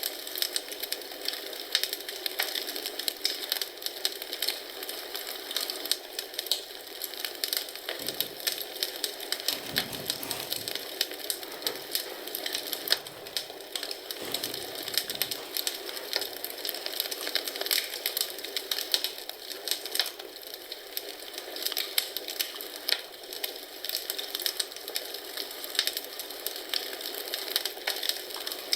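Wood fire in a fireplace crackling and popping steadily, with many sharp little snaps over a soft hiss. A few dull low thuds come about a third and half of the way through.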